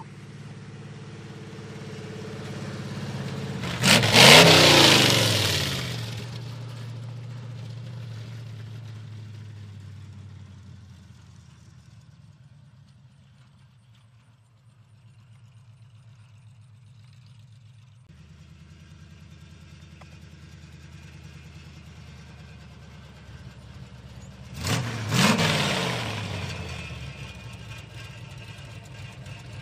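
A 1967 Chevy truck's 283 small-block V8 with headers idling, blipped twice: a sharp rev about four seconds in and another near the end, each falling back to idle.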